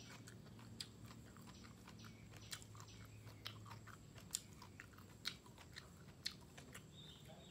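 Quiet, close chewing of grilled beef rolls with bell pepper and enoki, with sharp wet mouth clicks about once a second over a faint steady low hum.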